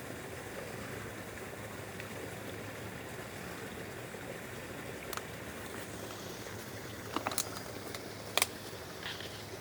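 Water from a small spring running steadily, with a few sharp clicks in the second half.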